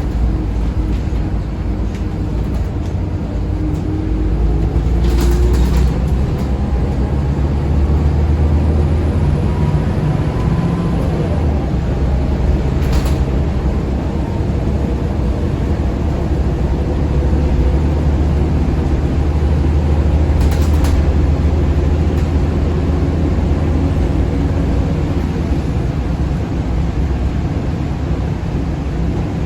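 Scania L94UB bus's diesel engine running under way, its pitch rising and falling as it changes speed. Three brief bursts of noise sound over it, about five, thirteen and twenty seconds in.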